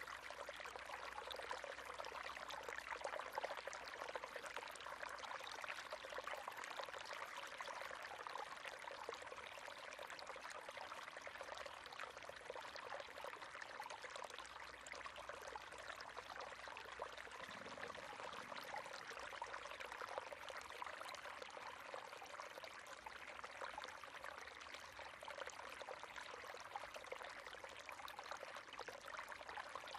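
River water running steadily over rocks: a continuous splashing rush with a fine trickling texture.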